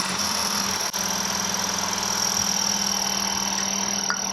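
Power drill running steadily under load, with a steady motor hum and a high whine, its bit barely cutting into the metal.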